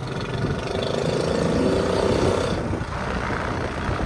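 Honda C70's small single-cylinder four-stroke engine running under way, mixed with wind and road noise. The engine note rises and then drops away suddenly about two and a half seconds in.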